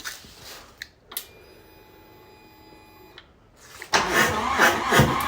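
Harley-Davidson Street Bob cold start: a click, then a steady electric whine of about two seconds, typical of the fuel pump priming at key-on. About four seconds in the starter cranks and the V-twin begins to catch.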